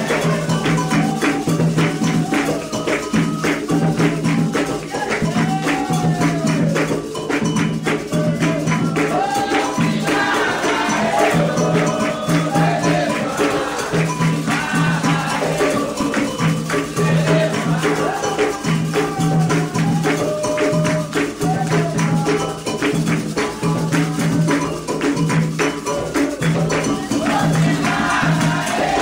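Candomblé ketu ritual music: atabaque hand drums beating a steady, repeating rhythm under fast clicking percussion, with voices singing a chant.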